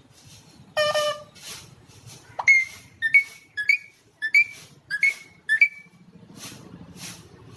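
Alexandrine parakeet whistling: a short call about a second in, then six short whistled notes a little over half a second apart.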